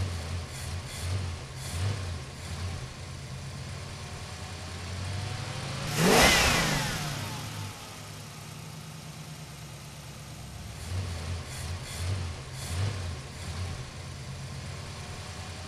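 Car engine sound effect: the engine ticks over with short revs, and about six seconds in a car speeds past with a whoosh that falls in pitch, the loudest moment. The revs pick up again near the end.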